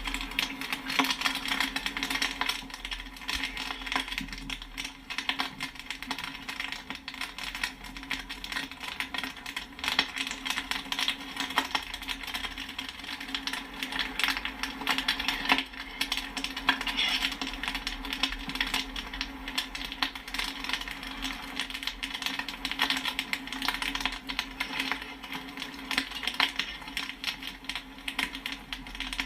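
Popcorn popping and pinging: many quick, irregular pops in dense succession over a steady low hum.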